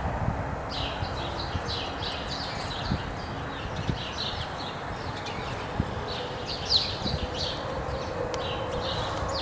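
Small birds chirping in quick, repeated short notes over a steady low rumble. A faint steady hum comes in during the second half.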